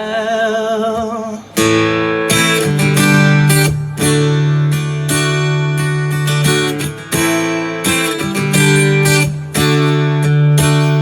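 A singer holds the end of a sung line with vibrato for about a second and a half. Strummed acoustic guitar chords then carry on alone as a short instrumental passage between verses.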